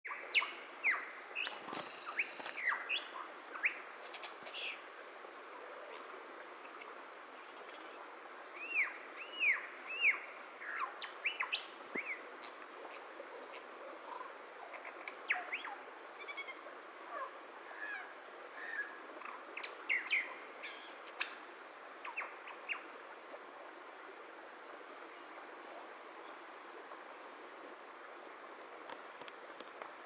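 Wild birds calling in forest: a string of sharp whistles, quick swooping up-and-down notes and chirps, busiest in the first dozen seconds and thinning out after about 23 seconds.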